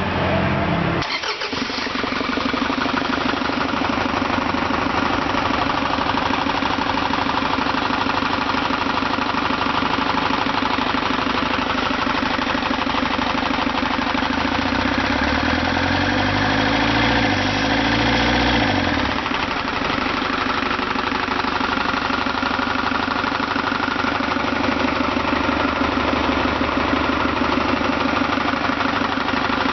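Isuzu 4HK1TC four-cylinder turbodiesel running steadily at idle. There is a sudden change in the sound about a second in, and the engine is revved up and brought back down between about 15 and 19 seconds.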